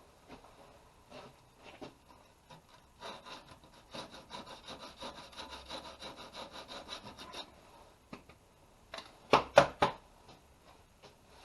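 Rusty metal being sanded by hand in rapid back-and-forth scraping strokes, about four a second, with a short, louder run of strokes near the end.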